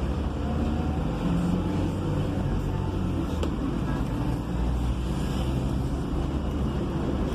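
Diesel engine running and road noise heard from inside the cab of a vehicle driving in city traffic: a steady low rumble with one brief click about three and a half seconds in.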